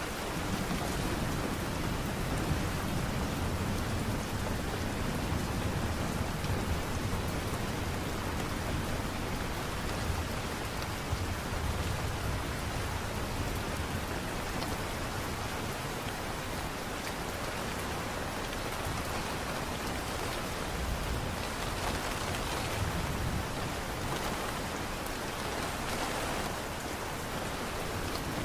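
Steady light rain, an even continuous hiss, with low rumbles swelling and fading now and then.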